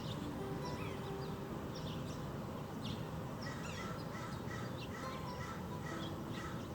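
Small backyard birds chirping: many short, high notes overlap, with a quicker run of repeated calls through the second half, over a steady low background noise.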